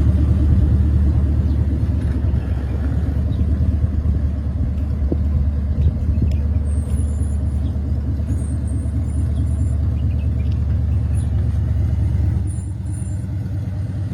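Supercharged engine of a Batmobile replica car, built on a Ford Raptor, running with a steady low rumble while the car is driven slowly. The rumble drops a little about twelve seconds in.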